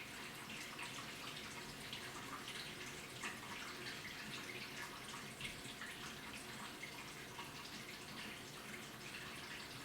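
Water splashing and trickling inside the tub of an AQUA washing machine, with many small irregular drips and splashes over a faint steady hum.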